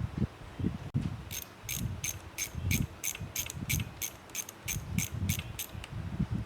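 A small mechanism clicking in a steady run, about three and a half sharp clicks a second for some four seconds, over low bumps of parts being handled.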